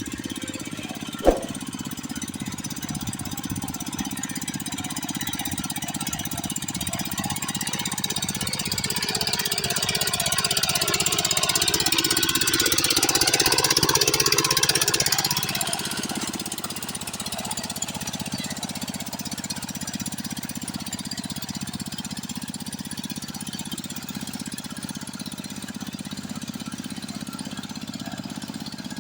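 Hand tractor engine running steadily while working in rice-field mud; it grows louder and brighter for several seconds in the middle, then eases back to its earlier level. A single sharp click sounds about a second in.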